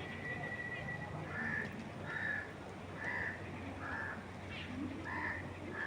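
Birdsong: one long, steady whistled note that stops about a second in, then a run of six short, harsh calls spaced a little under a second apart. A steady low hiss of outdoor ambience runs beneath them.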